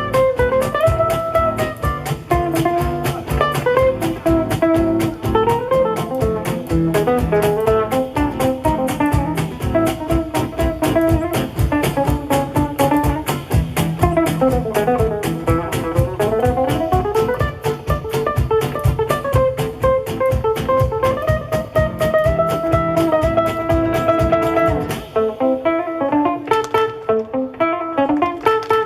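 Gypsy-jazz band playing live: a lead melody line over acoustic guitars strummed in a quick, even chugging rhythm. About 25 seconds in, the low accompaniment drops out and the melody goes on over lighter, sparser strums.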